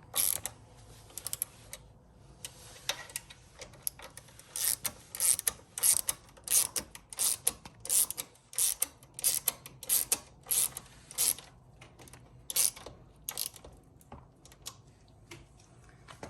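Ratchet wrench clicking in a long run of short strokes, about two a second, as the rear brake caliper's mounting bolts are tightened with the caliper centred on the rotor.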